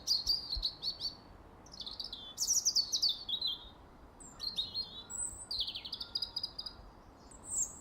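A songbird singing: short phrases of quick, high chirps that sweep downward, repeated every second or so with brief pauses between them.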